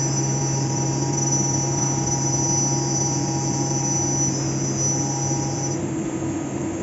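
Fagima Jazz M five-axis CNC machining centre milling a part: a steady high-pitched squeal from the cutter in the cut over the spindle's constant hum. The squeal drops out about six seconds in, leaving the hum.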